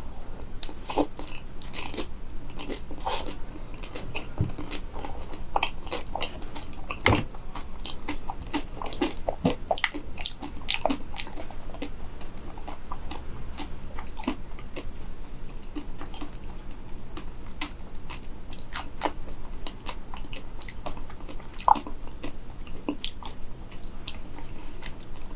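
Close-up chewing of a crunchy matcha-coated mini banana: a steady stream of crisp crunching clicks as the shell is bitten and chewed.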